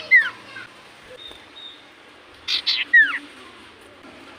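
Common iora (cipoh) calling: twice, a quick burst of buzzy notes followed by a sharp whistle that falls in pitch.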